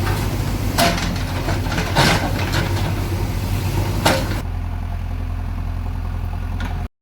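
JCB 3DX backhoe loader's 76 hp diesel engine running steadily at low revs, with a few sharp knocks over the first four seconds. The sound goes duller after about four seconds and cuts off just before the end.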